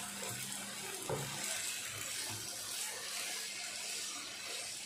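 Noodles and vegetables sizzling steadily in a frying pan as oyster sauce is poured in and stirred through, with a faint steady hum underneath.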